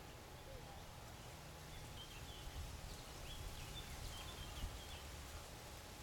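Faint songbird calling: a run of short, high chirps from about two to five seconds in, over a low, steady outdoor rumble.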